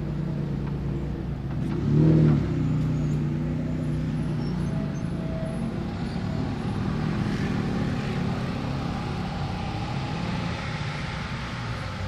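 Supercar engines idling and moving at a crawl, with a short throttle blip about two seconds in.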